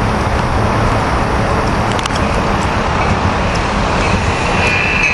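Amtrak Keystone push-pull train arriving at the station with its cab car leading, its cars rolling past with a loud steady rumble of wheels on rails. Near the end a high squeal from the wheels begins.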